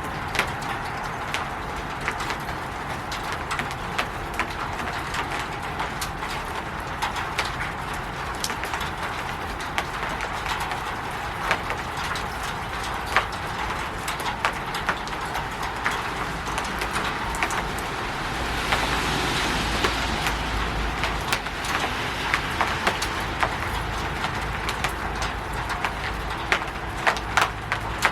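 Rain falling on a roof: a steady hiss with many sharp, separate drop hits and drips. About two-thirds of the way through, a low rumble swells for a few seconds together with heavier hiss, then fades back.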